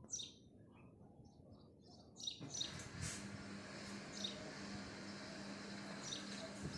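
Small birds giving short, high, falling chirps every second or two. About two and a half seconds in, a steady outdoor background noise with a low hum comes up under them.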